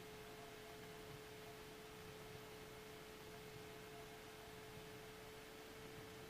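Near silence on the aircraft intercom audio: a faint, steady electrical whine with low hiss underneath.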